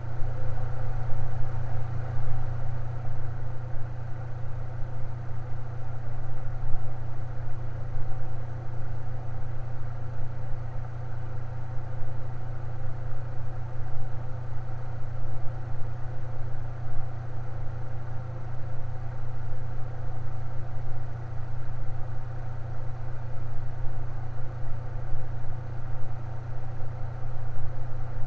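Electric fan running steadily, a constant low hum with a light whirring above it.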